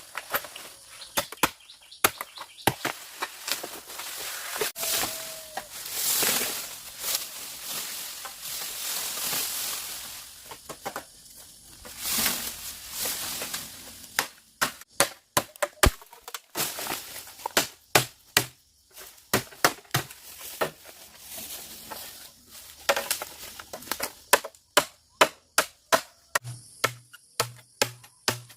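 Repeated chopping strikes on wood, sharp and irregular, with a stretch of steadier scraping noise early on and quicker strikes of about two a second in the second half.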